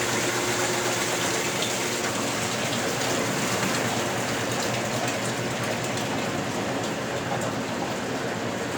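Westinghouse Lavínia washing machine (model LWAAP6KX, 1977) running, with a steady rush of water moving through it.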